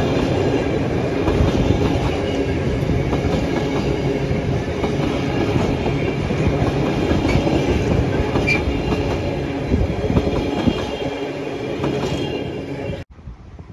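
Freight train rolling past, its wagon wheels clicking and rumbling steadily over the rail joints. The sound eases slightly, then cuts off abruptly about 13 seconds in, leaving faint wind.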